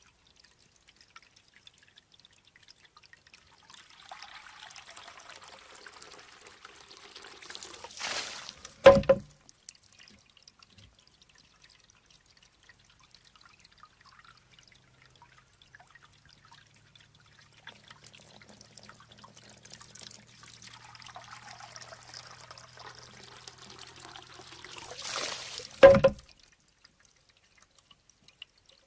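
Bamboo shishi-odoshi cycling twice: water trickles and then pours as the tube fills and tips to empty, followed each time by a single sharp clack as the tube swings back and strikes its stone. The two clacks come about 17 seconds apart, with quiet dripping between.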